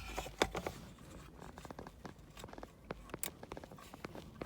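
Light clicks and scraping of hard plastic being handled as the number 5 spark plug wire boot is worked off the distributor cap, with a sharper click about half a second in and another a little past three seconds.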